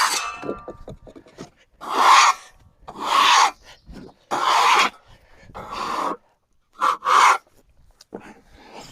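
Rough rubbing strokes across freshly sawn red oak boards, sweeping sawdust off the surface: six strokes, the last two in quick succession.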